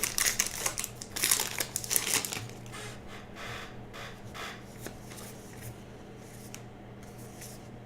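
Baseball cards and pack wrappers being handled: rapid rustling, crinkling and clicking for about the first two seconds, then only faint occasional rustles. A steady low electrical hum runs underneath.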